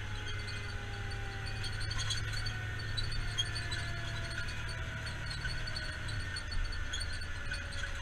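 Steady low mechanical hum, with faint thin tones sliding slowly downward over it.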